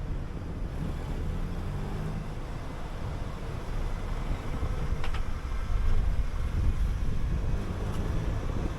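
City bus under way: steady low engine rumble and road noise, with a brief sharp click about five seconds in.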